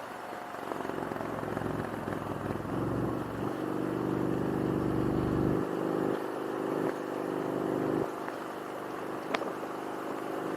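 Motorcycle engine running under way, over road and wind noise, swelling louder for the first few seconds and dropping back about six and eight seconds in. A brief sharp click near the end.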